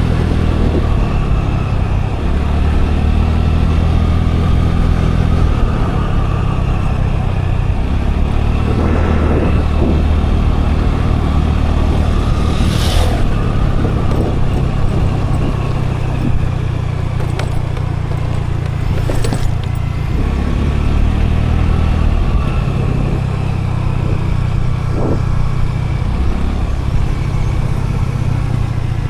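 A scooter's engine running steadily while riding, with road and wind noise over it. Two brief sharp noises stand out, about 13 seconds in and again about 6 seconds later.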